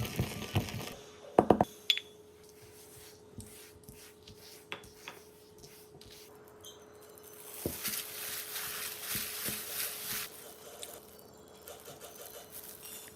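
Kitchen handling sounds: a quick cluster of knocks and clinks of utensils and dishes in the first two seconds, then scattered taps, and a hiss lasting about two and a half seconds in the middle.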